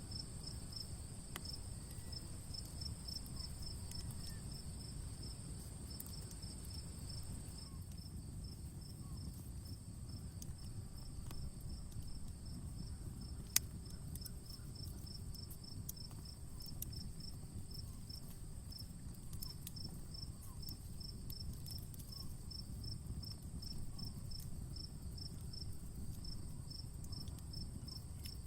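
Outdoor campfire crackling with scattered small pops and one sharper pop about halfway, over a low steady rumble. A cricket chirps steadily about twice a second against a continuous high insect trill.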